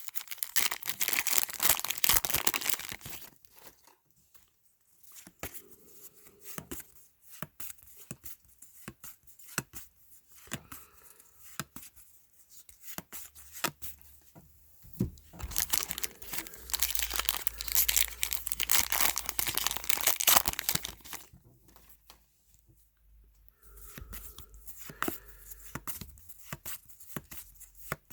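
Trading card pack wrappers tearing and crinkling, in two longer spells near the start and about halfway through, with short clicks of cards being handled in between.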